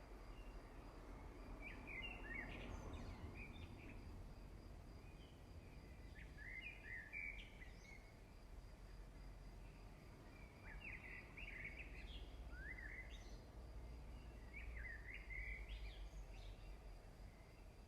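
Faint birdsong: short groups of chirping notes that come back every few seconds, over a steady low rumble.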